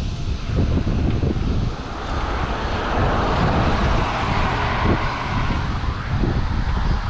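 Wind buffeting the microphone of a camera riding along on a moving bicycle, a constant low rumble with a rushing hiss that swells for a few seconds around the middle and then eases.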